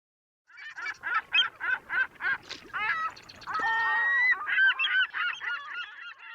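Geese honking, starting suddenly about half a second in: a run of short calls at about three a second, then a longer call and several birds calling over one another.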